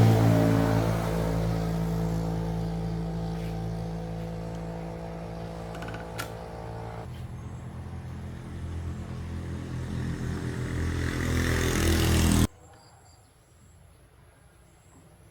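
A small motorcycle engine running steadily, loudest at first and easing slightly, then cut off abruptly about twelve seconds in, leaving faint insect chirping.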